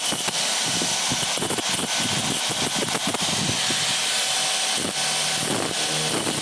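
Stone atta chakki (electric stone flour mill) running steadily, with a dense, rapid rattle over a continuous motor noise.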